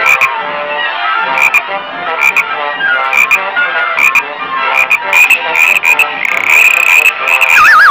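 Cartoon soundtrack: orchestral music with sharp hits about once a second. Near the end a wavering, warbling tone slides downward in pitch.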